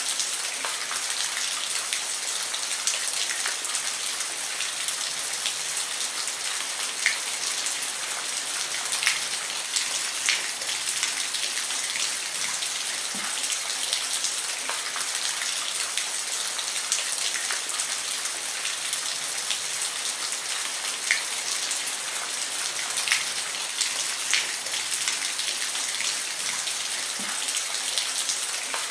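Steady rain on a roof: a constant hiss with individual louder drops ticking through it.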